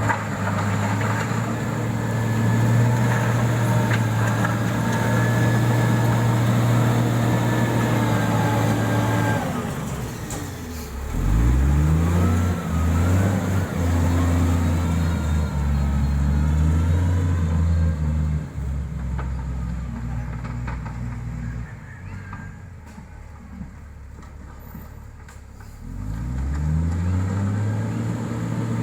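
Diesel engine of heavy road-building equipment running steadily, dropping off about a third of the way in, then revving back up. It settles lower and quieter past the middle, and revs up again near the end.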